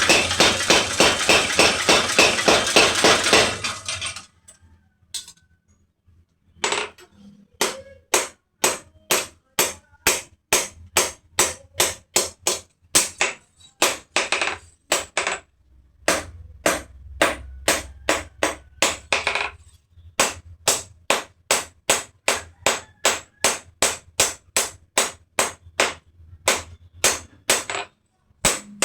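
Blacksmith's hammer striking hot metal on an anvil, each blow ringing. A fast run of blows opens the sound, then a pause of about two seconds, then steady blows about two a second with short breaks.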